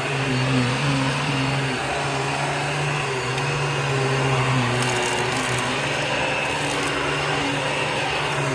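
Vacuum cleaner running, its motor hum wavering slightly in pitch, with brief crackles of crunchy debris being sucked up about five and six and a half seconds in.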